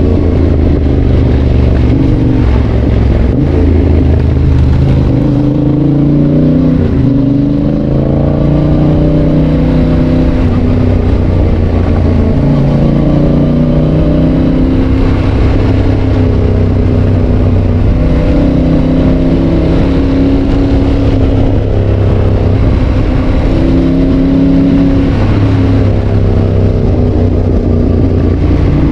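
Yamaha Tracer 7's 689 cc parallel-twin engine running through an aftermarket GPR exhaust while ridden. Its pitch climbs and drops back several times as the bike accelerates and changes gear.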